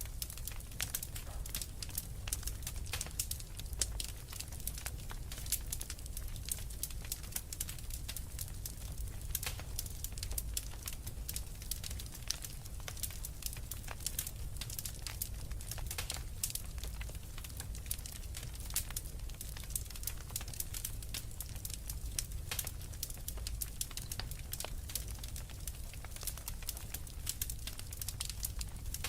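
Wood fire crackling in a fireplace: a dense, irregular run of sharp pops and snaps over a low steady rumble of the flames.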